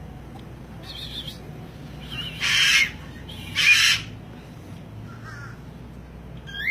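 Caged parrot giving two loud, harsh screeches about a second apart, with softer squawks before and after and a short pitched call at the end.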